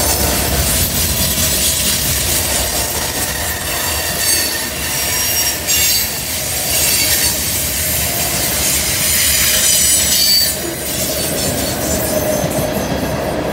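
Freight train cars rolling past on a curve: steady wheel-on-rail rumble, with high-pitched wheel squeal rising and fading as the wheels grind through the curve.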